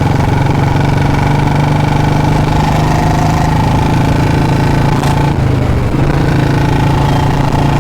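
Royal Enfield Bullet 350 single-cylinder engine running through a free-flow C-bend pipe and long Punjab silencer. It holds a steady, loud, deep thumping note while the bike is ridden at an even pace.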